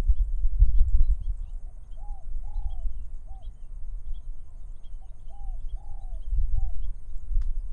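A dove cooing in two short phrases of three or four arched notes, over a low gusting rumble of wind, with faint high chirps of small birds.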